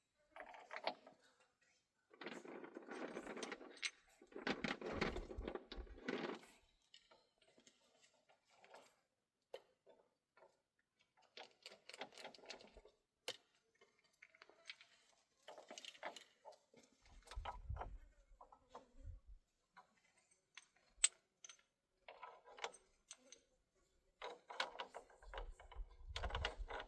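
Irregular handling noises: scrapes and rustles of a second or two each, scattered sharp clicks and knocks, and a couple of low thuds.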